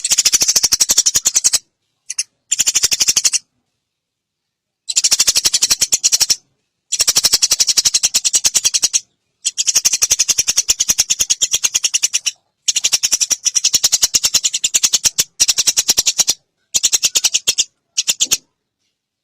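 Eurasian tree sparrow chirping in fast, continuous, high-pitched runs. The runs come in bouts of one to three seconds that stop abruptly into complete silence and start up again.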